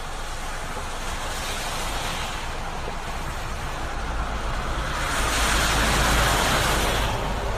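Heavy rain pouring down, a steady hiss that swells louder about five seconds in and eases again near the end.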